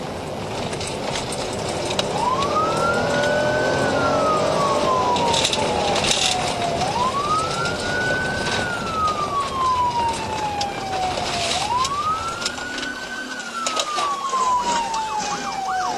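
Police car siren in wail mode, starting about two seconds in and rising and falling slowly, about once every five seconds. A fast yelp joins in near the end, over the noise of the pursuing patrol car's engine and road.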